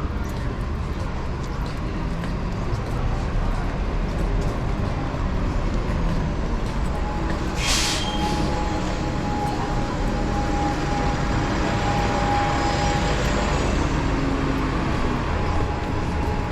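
City street traffic heard from a moving electric scooter: a steady low rumble of road noise, with a short sharp hiss about eight seconds in and a thin steady whine for several seconds after it.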